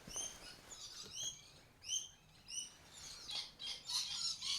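Small bird chirping: a string of short high chirps that quickens into a twitter near the end.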